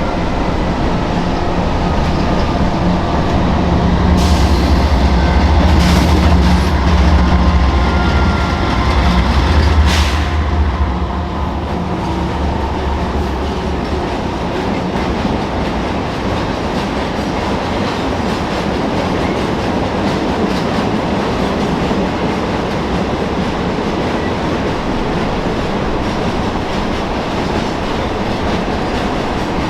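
Loaded iron-ore train passing: the locomotives' diesel engines drone deeply for the first twelve seconds or so, then give way to the steady rumble and clickety-clack of ore jennies rolling by. Faint wheel squeal is heard early on.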